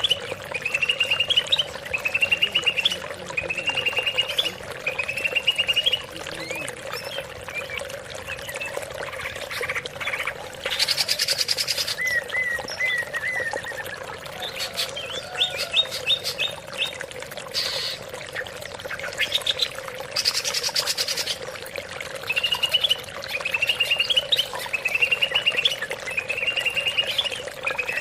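Greater green leafbird (cucak ijo) song played as a lure recording. Short trilled phrases rising in pitch repeat about every second and a half, with a stretch of varied buzzy and stuttering notes in the middle, over a steady low hum.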